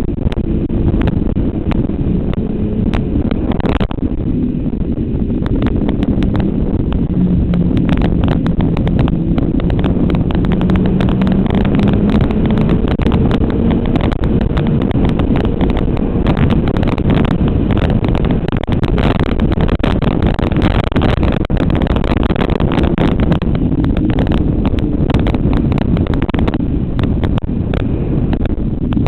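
Motorcycle engine ridden at speed, its pitch sinking and rising again as the revs change, under a steady rush of wind on the microphone.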